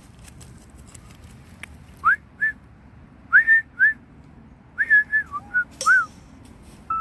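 A series of short, clear whistled notes in three quick groups, starting about two seconds in. Each note rises and arches, and the last group of about six notes comes faster and dips lower near the end.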